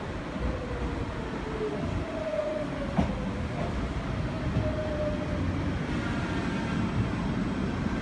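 Tokyu Ikegami Line stainless-steel commuter train pulling into the station platform and slowing, with a steady low rumble and a whine that falls in pitch several times. A sharp click sounds about three seconds in.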